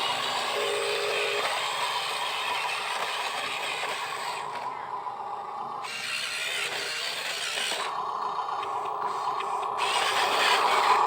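Small electric motors and plastic gearboxes of RC construction models running with a grinding whir, along with rattling and scraping. The sound thins out twice for a second or two and grows louder near the end.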